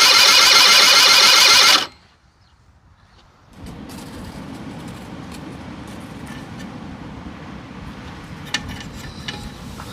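Honda Leader AF03 scooter's 50cc two-stroke engine running loudly and evenly after restoration, then cutting off suddenly about two seconds in. After a brief silence a much quieter steady low rumble follows, with a few faint clicks near the end.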